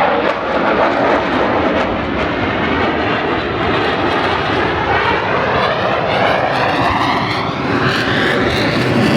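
An airplane flying past at an airshow, its engine noise loud and sustained, with a phasing, sweeping tone that rises through the second half as it passes.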